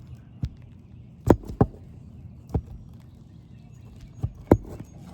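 About six sharp, irregularly spaced knocks, the loudest about a second in and near the end: a hammer striking a roof snake to work a leftover nail out from under asphalt shingles.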